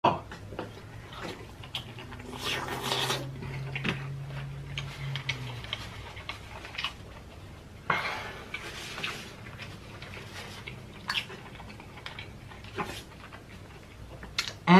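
Close-up eating and handling sounds of king crab legs: scattered clicks, taps and crackles of shell and utensils, with two longer crackling, rustling stretches about two and a half and eight seconds in.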